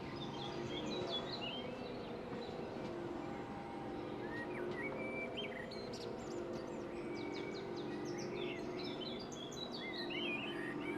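Birds chirping and singing in short repeated phrases, over a steady low hum.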